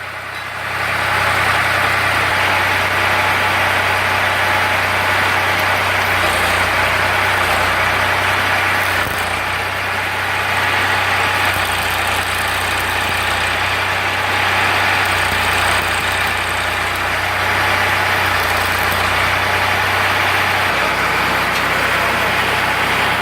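Ford 3600 tractor engine running steadily, driving a generator, with a loud, steady hissing noise over the engine hum.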